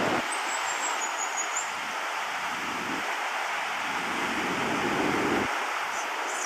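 Pacific Ocean surf washing in a steady hiss, with a low rumble that swells and fades a few times.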